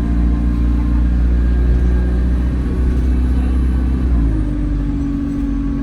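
Alexander Dennis Enviro200 single-deck bus heard from inside the cabin while under way: a steady engine and drivetrain drone with a low rumble. About four seconds in, the drone steps down slightly in pitch and the rumble eases.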